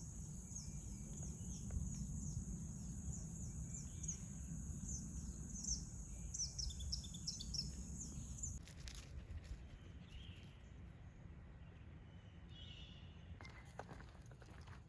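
Outdoor ambience of a steady high insect drone with repeated short falling bird chirps over it. About halfway through, the drone and chirps cut off abruptly, leaving a quieter background with a few faint chirps.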